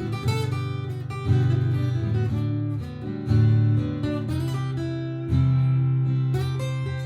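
Martin GPCPA4 acoustic guitar being strummed and picked, with a new low chord struck about every two seconds.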